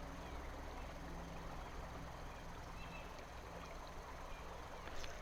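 River water running steadily, a faint even rush.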